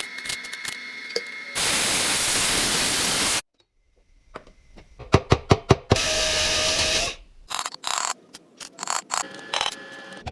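Metalworking on a steel motorcycle fuel tank during welding and rough finishing of spliced-in panels. Two bursts of steady hissing noise are separated by a quick run of sharp clicks and taps, followed by scattered taps near the end.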